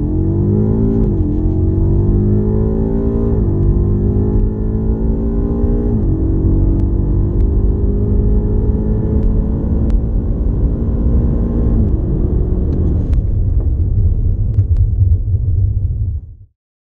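2018 BMW M5's twin-turbo V8 at full throttle, pitch rising through the gears with quick upshifts about a second, three and a half and six seconds in, then a long pull in fifth up to about twelve seconds. The throttle then lifts and the engine drops to a low rumble as the car slows, and the sound cuts off suddenly near the end.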